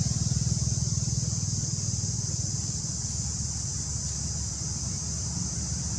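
Low, pulsing motor-vehicle engine rumble that fades over the first few seconds, over a steady high-pitched drone.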